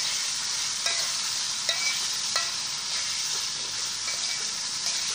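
Shrimp frying in a hot pan, a steady sizzle, with a few short clicks and scrapes as they are stirred by hand.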